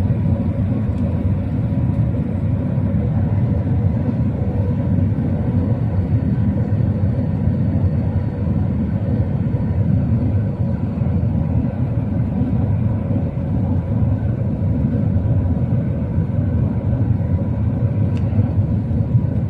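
Steady deep rumble of airflow and engines heard inside an Airbus A380-800 cabin on approach to landing, with faint steady whining tones over it.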